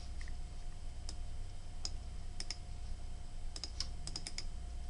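Computer keyboard keys tapped while a web address is typed in: a few single clicks, then a quick run of several in the middle, over a faint steady low hum.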